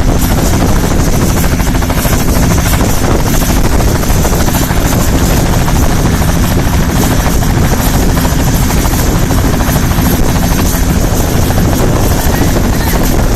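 Bell 206L LongRanger helicopter running loud and steady close by: a continuous turbine and rotor sound with a rapid beat from the blades, level throughout.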